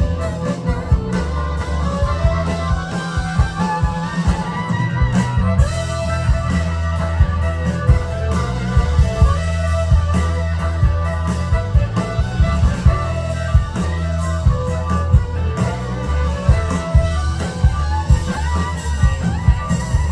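Live rock band playing an instrumental passage, guitar over bass and drum kit, with no singing.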